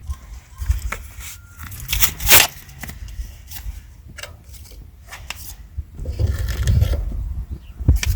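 Irregular scraping, rubbing and knocking of objects being handled, with the loudest scrape about two seconds in and a stretch of low rumbling about six seconds in.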